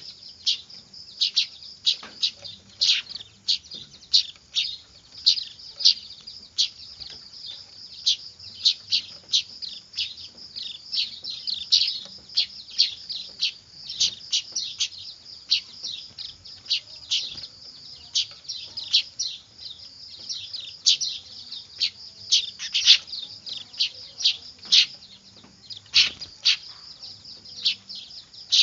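Weaver bird (manyar) chicks calling noisily: a dense, unbroken stream of short, high chirps, several a second.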